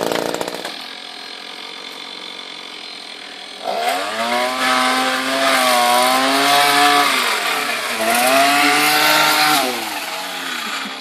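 Chainsaw's two-stroke engine dropping to idle within the first second and idling for a few seconds. It then revs up twice, the pitch rising and falling with each rev.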